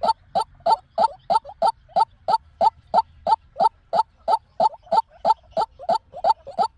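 White-breasted waterhen calling: short, identical notes repeated evenly and fast, about three a second, the call used as a lure for trapping waterhens.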